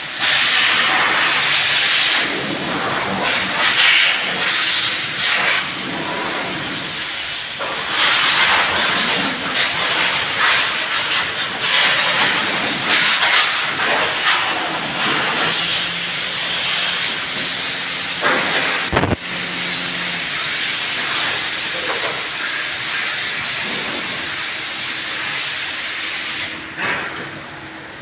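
Loud hissing of a high-pressure jet, surging and easing in strength, that cuts off shortly before the end.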